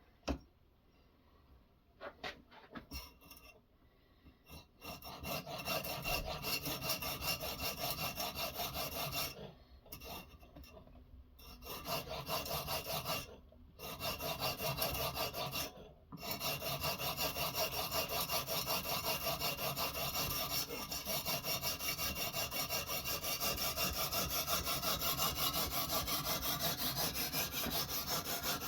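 A knife blade stroked rapidly back and forth against a sharpening stone on a guided angle-sharpening system, a rhythmic scraping. A few clicks at first, then the scraping runs with short breaks around a third and halfway through, and goes on steadily.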